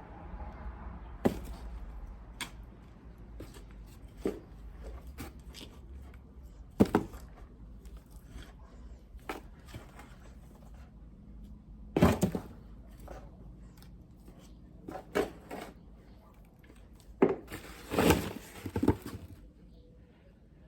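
Potatoes being dug out of soil by hand: irregular knocks and clicks, a dozen or so spread out with long gaps, over a low steady rumble.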